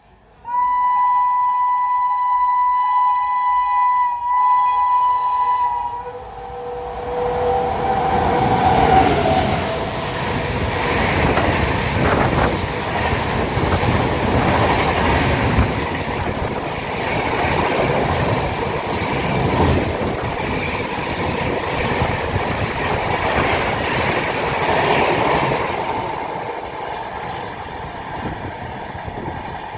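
Indian Railways express train sounding a long two-tone horn blast with a brief break, the pitch dropping as the locomotive passes. The train then rushes by with wheel-on-rail clatter for about twenty seconds, easing off near the end.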